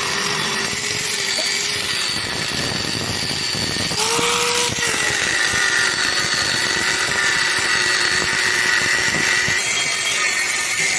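A power tool running steadily under load, with a brief change in its note about four seconds in.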